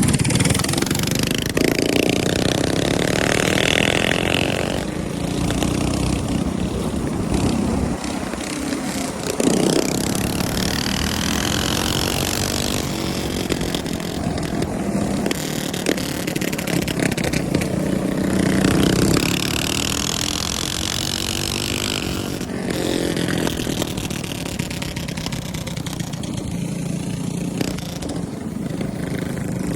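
Small single-cylinder minibike engines running and revving, the engine note rising and falling in pitch several times as the bikes speed up and ease off.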